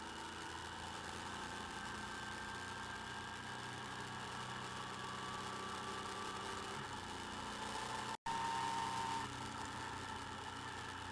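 Motorcycle engine running steadily, with a few held whining tones over the hum. About eight seconds in the sound drops out for an instant and comes back slightly louder for a second.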